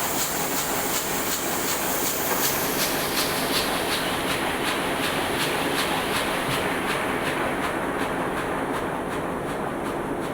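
Heidelberg SM 52 four-colour sheetfed offset press running, with a steady mechanical clatter that ticks about three times a second as sheets feed through. A high hiss sits over it and fades about halfway through.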